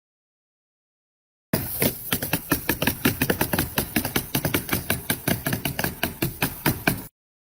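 Rapid, irregular knocking: about five or six sharp strikes a second, typical of hand-tool hammering or tapping. It starts suddenly after a second and a half of silence and stops abruptly near the end.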